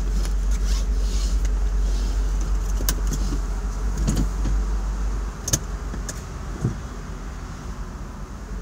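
Car idling, heard from inside the cabin through a smartphone's microphone: a steady low rumble with a few sharp clicks, the loudest about five and a half seconds in.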